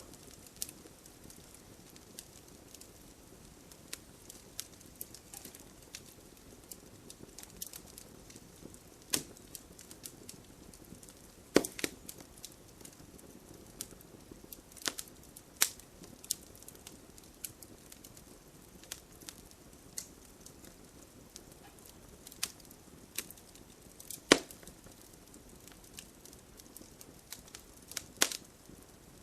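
Wood campfire burning: irregular sharp crackles and pops over a soft, steady hiss, a few pops much louder than the rest.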